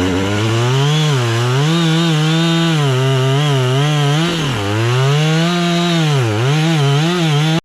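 Compact excavator's diesel engine running under hydraulic load, its pitch repeatedly dipping and recovering as the machine works. The sound cuts off suddenly at the very end.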